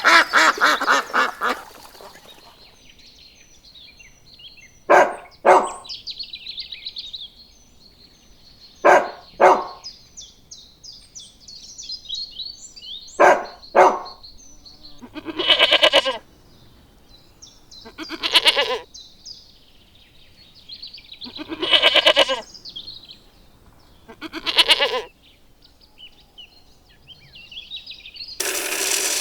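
Repeated loud calls of a farm animal: short calls in pairs about half a second apart, three times, then four longer single calls a few seconds apart, with small birds chirping steadily underneath. A steady noise starts near the end.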